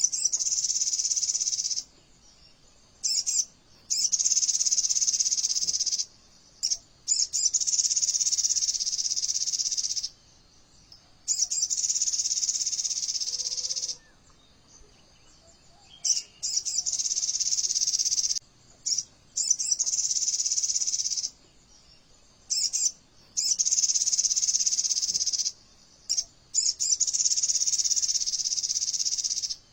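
Recorded song of a sogon bird used as a tutor and lure track: rapid-fire, tightly packed high-pitched trills, the 'AK47' style of fill, in phrases of two to three seconds, often led by a short note and separated by brief pauses.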